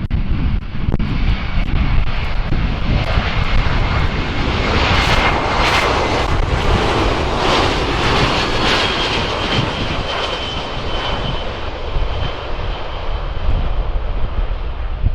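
Boeing C-17 Globemaster III's turbofan engines passing by: a jet roar that swells to its loudest about halfway through and then fades, with a steady high whine over it.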